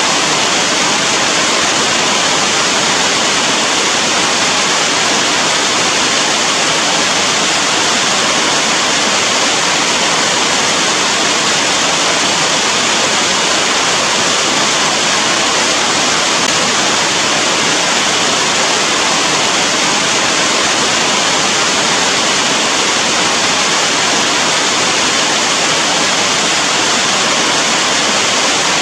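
Steady heavy rain falling, a dense, even hiss that does not change.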